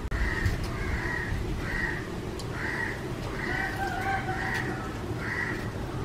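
A bird calling in a series of short, raspy notes, roughly one a second, over a steady low background hiss.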